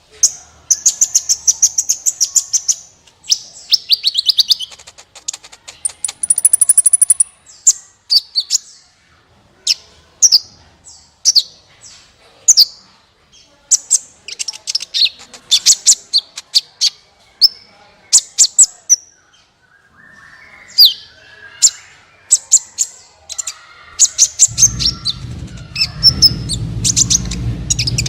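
Sunbird song: a lively run of rapid, high-pitched chirps and short trills. A steady low hum comes in near the end.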